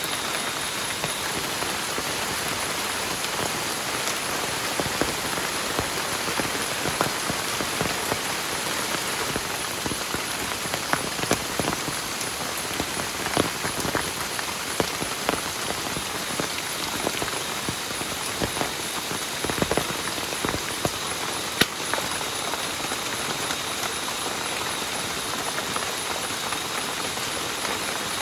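Heavy rain falling steadily, with many sharp individual drops striking close by, thickest in the middle stretch.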